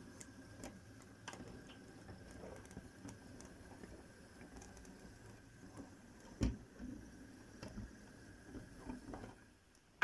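Model Q1 locomotive running slowly in reverse over newly relaid track: a faint steady motor hum and rumble, with small irregular clicks from the wheels crossing rail joints and points, and one louder knock about six and a half seconds in.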